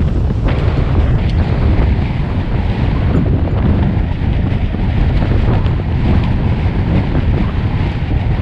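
Strong gusting wind buffeting the microphone, a loud steady rumble, with waves slapping against a fishing boat.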